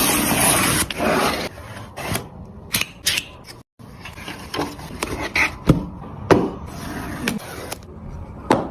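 Smartwatch packaging being handled: cardboard and paper rubbing and scraping, loudest in the first second and a half, then a series of sharp clicks and short rustles.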